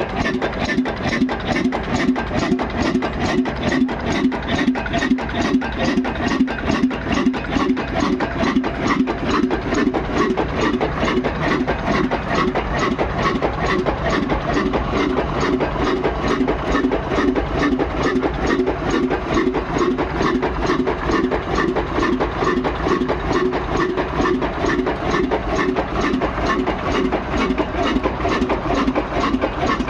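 Old 20 HP stationary diesel engine running steadily, with an even, rapid exhaust beat.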